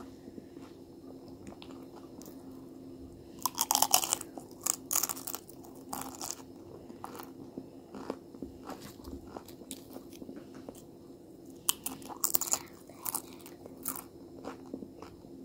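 Close-up crunching of a crisp golden snack being bitten and chewed: a dense run of loud crunches a few seconds in, softer chewing, then a second run of crunches near the end. A steady low hum sits underneath.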